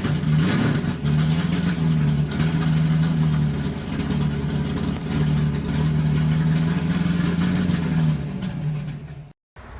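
A car engine running and revving, its pitch wavering a little; it starts suddenly, fades after about eight seconds and cuts off just before the end.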